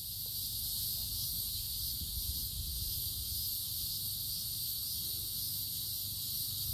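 Steady high-pitched insect chorus, with an uneven low rumble underneath.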